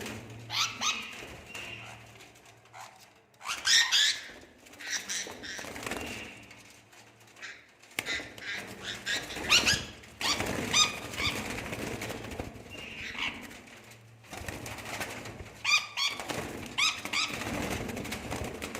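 Birds calling with short, high chirps that come in repeated clusters throughout.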